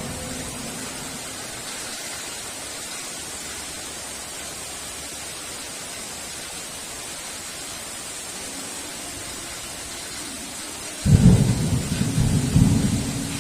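Steady heavy rain hissing. About eleven seconds in, a sudden loud thunderclap breaks in and rolls on as a low rumble.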